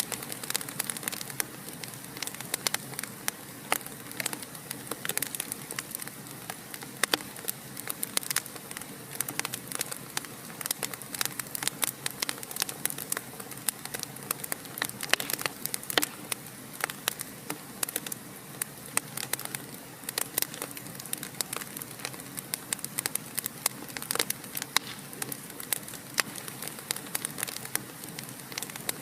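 Fire crackling in a fireplace: a steady soft hiss with many sharp pops and crackles, several a second, throughout.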